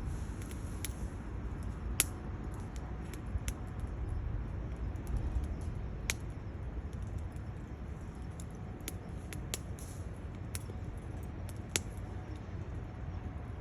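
Split firewood burning in a stainless-steel Bushbox XL twig stove, crackling with scattered, irregular sharp pops and snaps over a low, steady rumble. The loudest pops come about 2, 6 and 12 seconds in.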